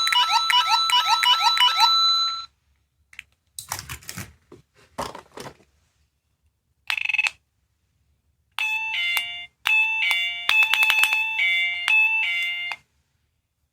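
A small electronic sound toy from a capsule-toy machine playing its synthesized beep effects: a fast repeating alarm-like chirp for about two and a half seconds, a few clicks as it is handled, a short beep, then a two-tone electronic chime pattern lasting about four seconds.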